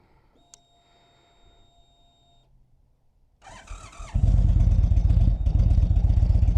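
Indian Springfield motorcycle's V-twin engine being started. A faint click and a faint steady hum come first, then a short burst of cranking about three and a half seconds in. The engine fires a moment later and settles into a loud, steady, throbbing idle.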